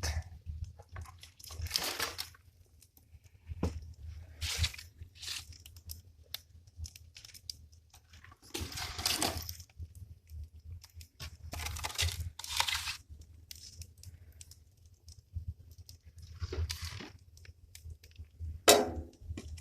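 Intermittent crunching and scraping of handled wood, likely firewood being loaded into a wood stove, in short bursts a few seconds apart over a steady low hum. There is a sharp knock near the end.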